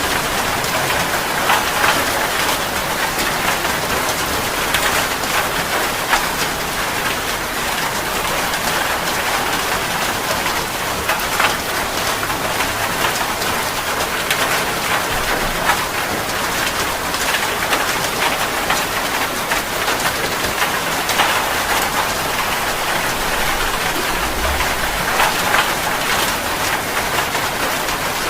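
Steady rain falling on a surface, with scattered drops standing out now and then.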